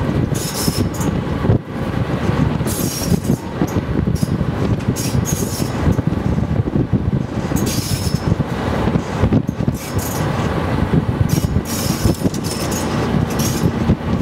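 Locomotive 401Da-131 running along a branch line, heard from its front platform: a loud, steady rumble of engine and wheels on the rails, with short gusts of hiss every few seconds.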